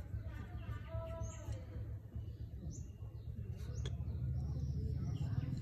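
Low background rumble with a short pitched bird call about half a second in, and a few light metal clicks as a screwdriver works on an angle grinder's gear head.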